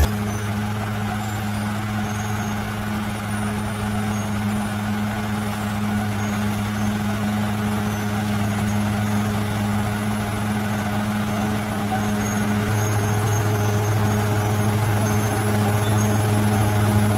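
Heavy bulldozer's diesel engine running at a steady pitch while working, growing a little louder about two-thirds of the way through.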